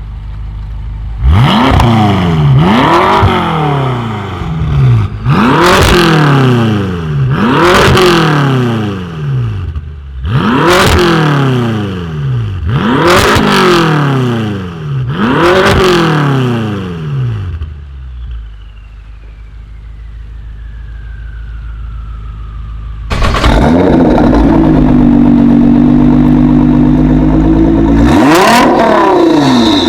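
Tuned car engine revved hard through a loud exhaust: a quick run of sharp rev blips, each rising and falling, then a few seconds of idle, then a rev held steady for about five seconds and one more blip near the end.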